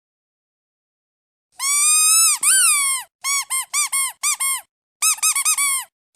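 Squeaky duck toy being squeezed: one long squeak, then five short squeaks, then a quick run of about five more.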